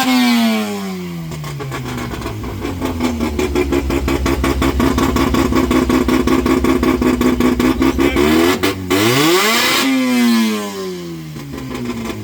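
A car engine being revved: the pitch falls away from a rev at the start, then it runs at a steady raised idle with a fast pulsing beat, and is revved sharply again about nine seconds in before dropping back.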